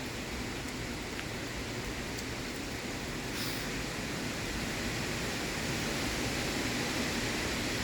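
Severe-storm wind blowing hard, a steady rushing noise that swells a little near the end.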